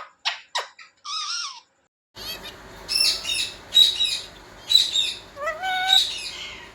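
Indian ringneck parrot calling: a few sharp, quick calls and a short warbling call, then after a brief gap a run of shrill chirps with a lower, gliding, voice-like call near the end.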